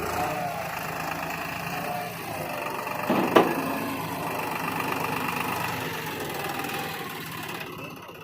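Same Deutz-Fahr Agromaxx 4050 E tractor's three-cylinder diesel engine running steadily, with one sharp knock or clank a little over three seconds in.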